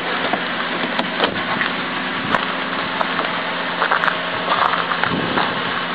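Ice crackling and crunching in scattered sharp snaps over a steady hiss.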